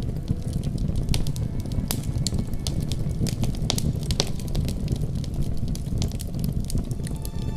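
Wood fire crackling in a fireplace: irregular sharp pops and snaps over a low steady rumble of flame.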